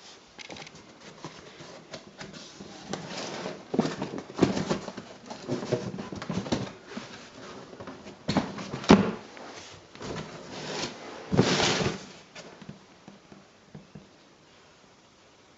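Boot box and packaging being handled and opened: irregular rustling, scraping and knocking, with a sharp click about nine seconds in, then it goes quiet for the last few seconds.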